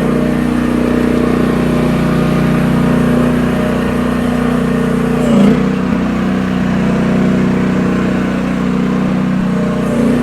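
Small Briggs engine of a Shandong HT10 mini excavator running steadily under way, with a brief surge about halfway through.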